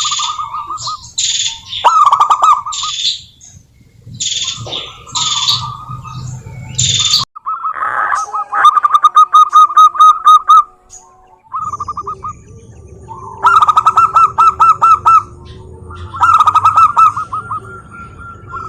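Zebra doves singing: repeated runs of quick staccato cooing notes, each run lasting one to three seconds, with high chirps from other small birds mixed in.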